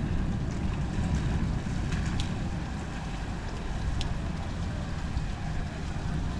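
Low rumble of distant thunder, slowly fading, over a steady hiss of storm noise, with a few sharp ticks about two and four seconds in.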